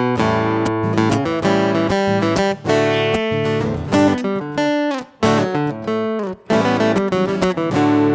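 Acoustic guitar (violão) playing the song's instrumental introduction, chords strummed and notes picked in a steady rhythm, with a few brief breaks between phrases.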